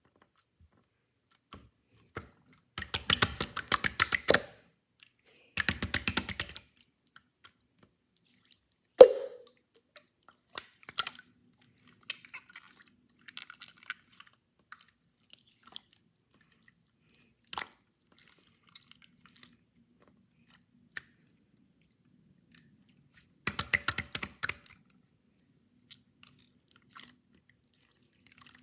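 Yellow clear slime being pressed and stretched, giving bursts of rapid wet clicking and popping, with scattered single clicks between them. One louder pop comes about nine seconds in.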